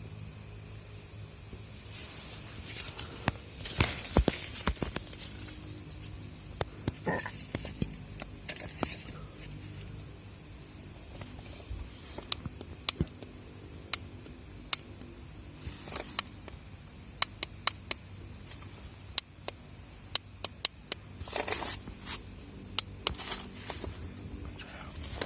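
Crickets chirring steadily in a high thin tone, with many scattered sharp clicks and a few short rustles over it.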